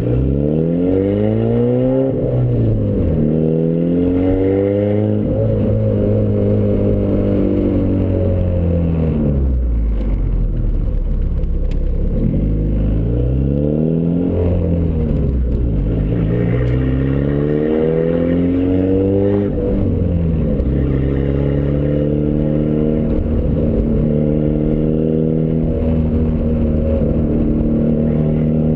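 The exhaust of a turbocharged Ford Escort ZX2's four-cylinder engine, run through a custom 3-inch side-exit exhaust, while the car is driven. The engine pitch climbs under acceleration and drops back at each gear change, falls away during a slowdown in the middle, then climbs through the gears again and settles to a steady cruise for the last third.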